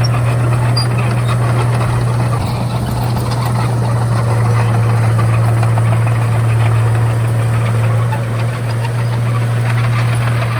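Komatsu D31A bulldozer's diesel engine running steadily with an even low drone.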